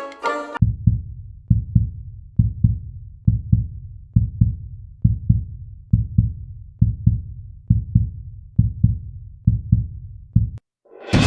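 Heartbeat sound effect: deep double thumps, lub-dub, about one pair a second, between music tracks. A banjo tune cuts off just after the start, and a new, louder music track comes in near the end.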